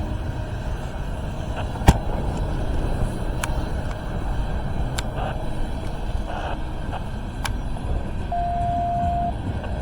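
Norfolk Southern freight train rolling past on snowy track: a steady low rumble, with a few sharp clicks spread through it and a brief steady high tone near the end.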